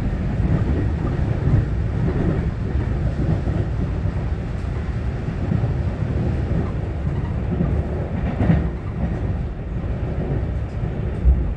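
Interior running noise of an EMU900-series electric commuter train (set EMU923) at speed: a steady low rumble of wheels on rail. There is a brief louder knock about eight and a half seconds in and a short low thump near the end.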